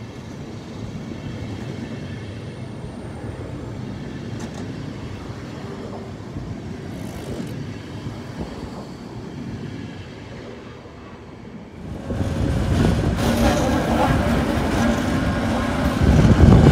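Trains at a railway station: a moderate low rumble for about twelve seconds, then an abrupt change to a much louder passing locomotive with a steady engine hum, growing louder near the end.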